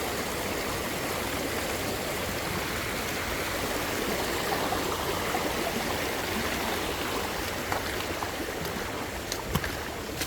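Creek water flowing steadily over rocks, with a few light clicks near the end.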